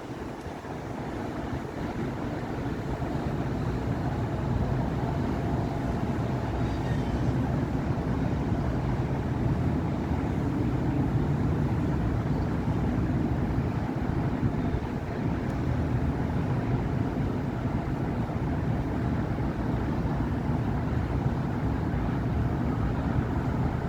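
Steady city traffic: cars and buses running along a busy avenue in a continuous rumble of engines and tyres, building up over the first few seconds as traffic moves past.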